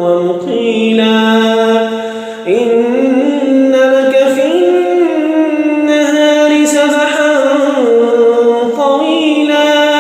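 A man's voice reciting the Quran in melodic tajweed style (mujawwad), holding long drawn-out notes with ornamented turns between them.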